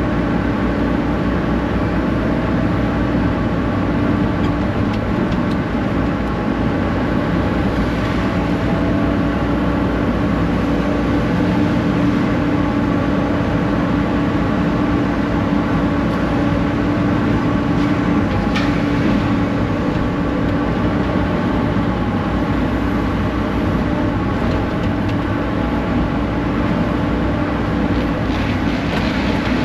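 Excavator's diesel engine running steadily, with no change in pitch or level.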